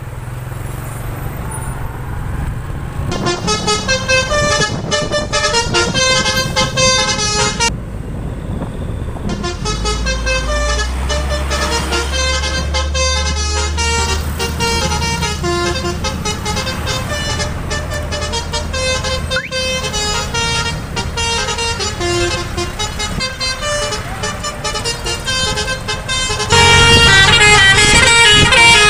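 Indonesian bus 'telolet' musical air horns playing fast multi-note tunes over bus engine noise. The horns start about three seconds in, pause briefly about a third of the way through, and get louder near the end.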